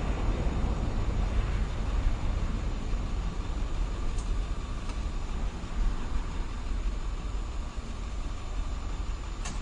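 Airplane noise: a steady low rumble with a faint steady high tone over it, easing slightly in level.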